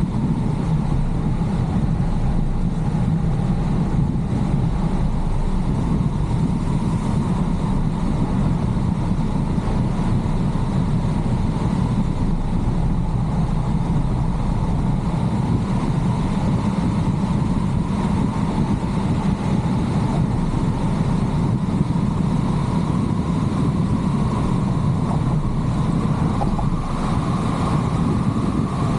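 A car driving on a mountain road: steady engine and tyre noise, with a faint whine that rises slightly near the end.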